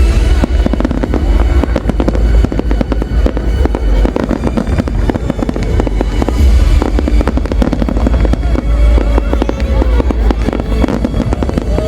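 A large fireworks display going off without a break: dense, rapid bangs and crackles over a constant low rumble.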